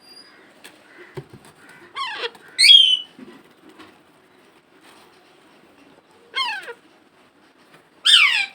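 A pet parrot calling: four short calls, each sweeping down in pitch, the second the loudest.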